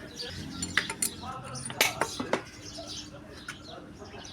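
Valve of a Volvo FMX 400 cylinder head being hand-lapped into its seat with emery grinding compound: metal-on-metal scraping with irregular sharp clicks and clinks, the loudest about two seconds in.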